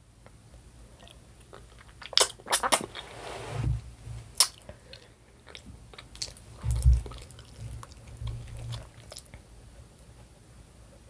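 Close-miked eating: chewing and biting food, with scattered sharp clicks and a few low thumps.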